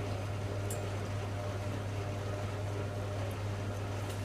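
Hoover Logic A3790 washing machine running mid-wash, a steady low hum with no change in speed.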